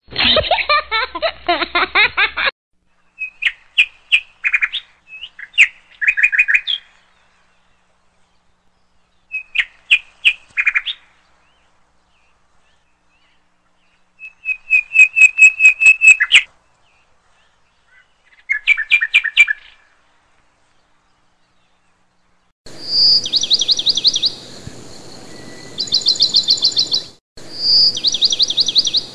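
Birdsong: short chirping phrases separated by silent gaps, then, in the last few seconds, rapid high trills repeating over a steady hiss. A brief burst of music-like sound opens it.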